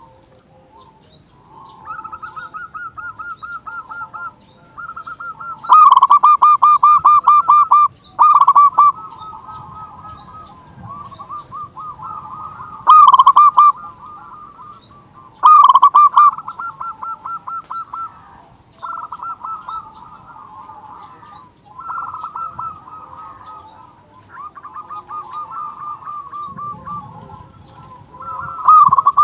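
Zebra doves (perkutut) cooing in rapid runs of short, even notes, one phrase after another with hardly a break. Some phrases are much louder than the rest, and the loudest come about four times in the first half.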